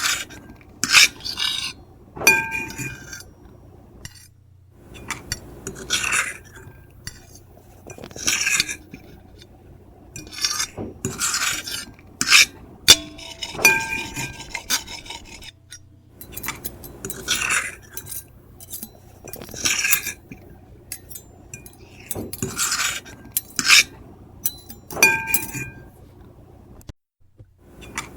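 Metal fork and knife scratching across a plate in a string of irregular strokes, each a second or less long. Several strokes ring with a short squealing tone.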